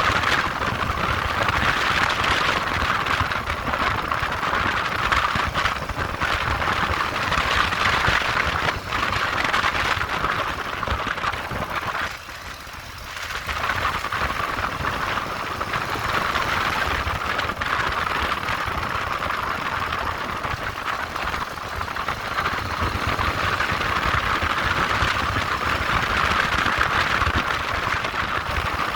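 Motorcycle running on the move: a steady rush of engine and air noise that drops away briefly about twelve seconds in, then picks up again.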